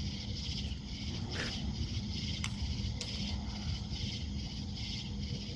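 Steady outdoor background noise with a low hum and a faint, evenly pulsing high chirr, broken by a few faint sharp clicks; no loud firework bursts.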